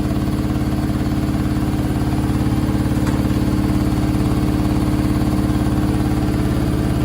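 Candy SmartTouch washing machine on a high-speed final spin with an unbalanced load: a steady motor whine over a fast, even rumble of the drum. The motor is overheating, giving off a strong burning smell.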